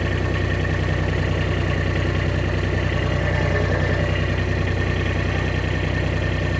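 A vehicle engine idling steadily: an even, unchanging low hum.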